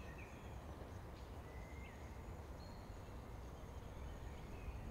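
Faint birdsong, short chirps and whistles, over a steady low background rumble.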